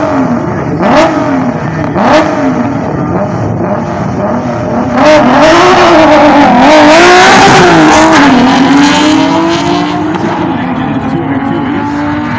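Straight-six drag cars, an E30 BMW's M20B29 and an LJ Torana's 202, revving on the start line in blips about once a second. About five seconds in they launch with a burst of wheelspin and the engines climb hard. The engines then pull away with their pitch rising steadily, fading as they go down the strip.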